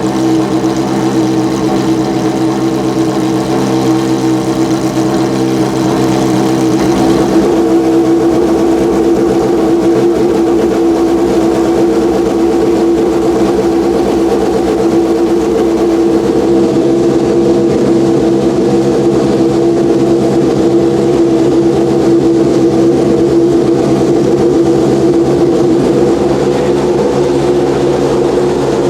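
Ferrari F430 GTC race car's 4.0-litre naturally aspirated V8 running at a steady idle, with no revving. The note grows fuller about seven seconds in.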